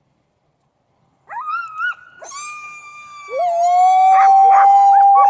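Sled dogs howling together: after a second or so of silence, several long, overlapping howls start up, with one voice holding a steady high note over the others.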